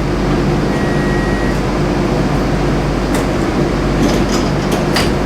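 Steady drone of a Hiroden tram's on-board equipment inside the car while it stands at a stop, with a few sharp clicks in the second half.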